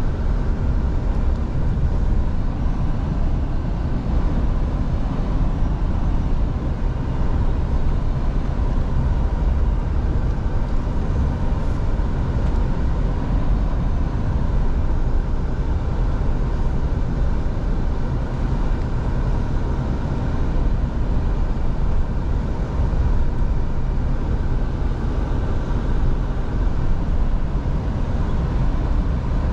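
Scania V8 truck engine running steadily while driving, a low drone mixed with road noise, with no change in pitch.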